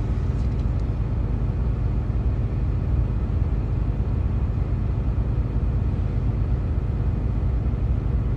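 Steady low rumble inside a truck cab, with a few faint clicks just after the start.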